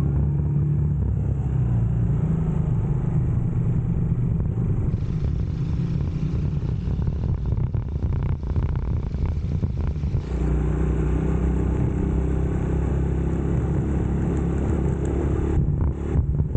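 UM Scrambler X motorcycle engine running on the move. It runs steadily, eases off into a rougher, noisier sound for about five seconds in the middle, then picks up steadily again, with a few brief dips near the end.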